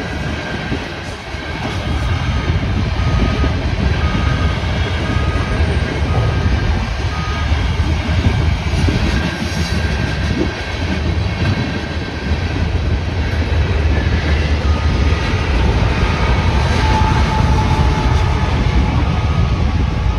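Freight train of covered hopper cars rumbling through a grade crossing, with the crossing's GS Type 1 electronic bell dinging repeatedly, about once a second.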